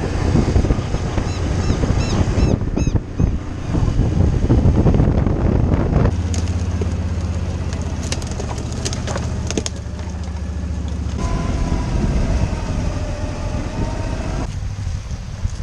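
FPV racing quad's brushless motors and propellers running in flight, a dense whir with steady low tones that shift several times with throttle, mixed with wind buffeting the onboard camera's microphone.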